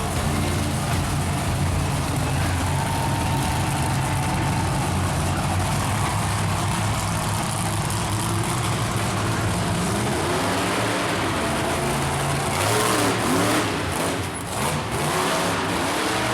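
Large engine running steadily, then revving up and down several times in the last few seconds.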